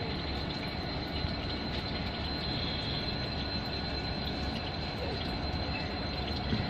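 Steady running noise of a moving train heard from aboard: wheels rolling on the rails, with a thin, steady high whine throughout.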